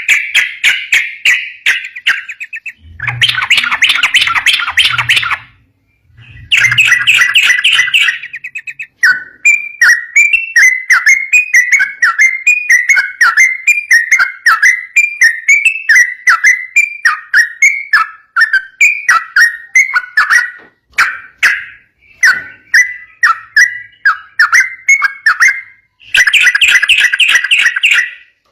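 Yellow-vented bulbul (trucukan) singing loudly and almost without a break. Dense chattering phrases alternate with long, fast runs of short, down-slurred whistled notes, the rapid 'ropel' style of song.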